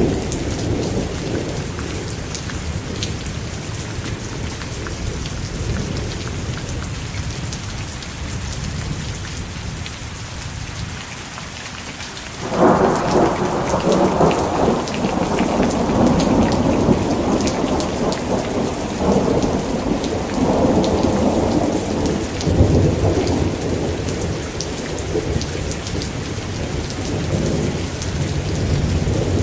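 Steady rain with thunder. About halfway through a loud rumble breaks in suddenly, then rolls on for the rest of the time, swelling and fading in waves.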